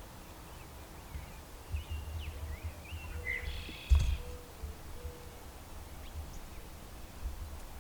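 Outdoor field ambience: wind rumbling on the microphone while small birds give short chirping calls, with a single sharp thump about four seconds in.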